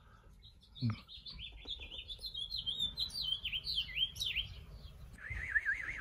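A small songbird singing a long run of quick, chirping, warbling notes, with a lower trill near the end.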